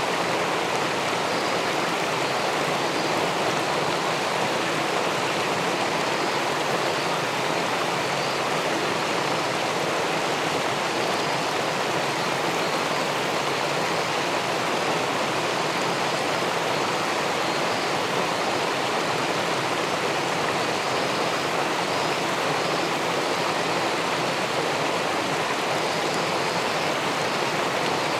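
River water pouring over a weir and churning in the pool below it, heard through a camera submerged in the water: a steady, unbroken rush.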